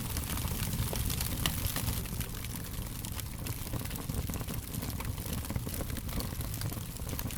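Fire crackling: a dense, irregular scatter of small sharp pops and snaps over a low steady rumble.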